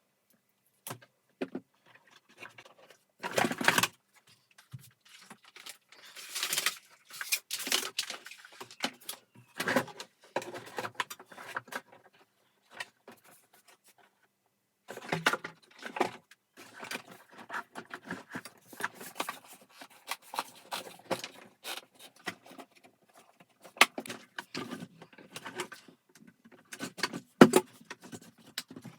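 Irregular clicks, knocks and rattles of vacuum cleaner parts being handled and taken apart, with a pause of a couple of seconds around the middle.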